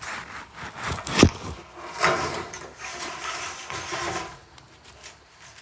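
Salvaged building materials being handled and shifted: a sharp knock about a second in, then a couple of seconds of scraping and rattling.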